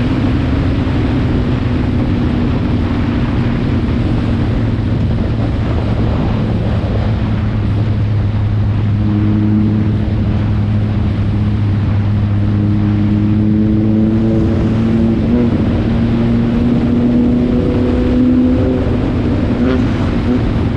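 Stock car engines running steadily on the track, with several engine notes overlapping in the middle stretch.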